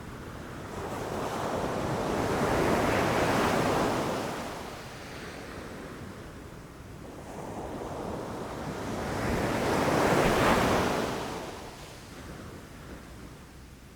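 Ocean surf: two waves rush in and break about seven seconds apart, each swelling to a peak and then fading.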